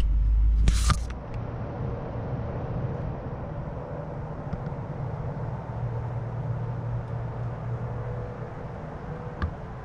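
Steady low engine rumble with a faint hum. It is loud for the first second, with a sharp rustling burst about a second in, and then settles quieter.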